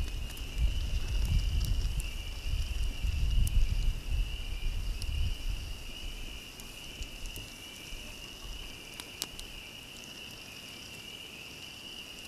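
A chorus of tree frogs trilling steadily and loudly. Wind rumbles on the microphone for the first five seconds or so, then dies away and leaves the frogs on their own.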